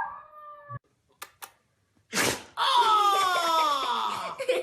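An animal's long wailing cry, sliding slowly down in pitch, starting a little past halfway. Before it come a short gap, two faint clicks and a brief burst of noise.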